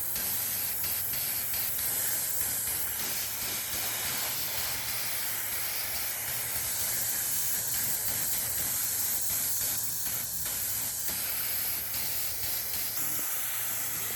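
Steady hiss of a pressurised spray jet, with a low steady hum underneath.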